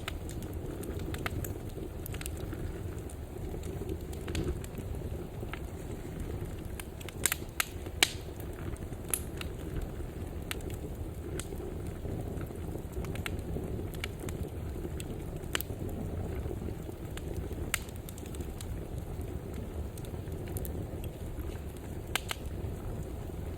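Wood fire burning in a fireplace: a steady low rumble with irregular sharp crackles and pops, the loudest a pair of pops about seven and eight seconds in.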